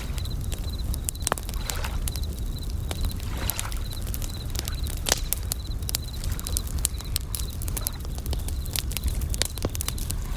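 Campfire crackling with many sharp pops over a steady low rumble, small waves washing in every couple of seconds, and bell crickets (suzumushi) chirping in a high, rapidly pulsed trill.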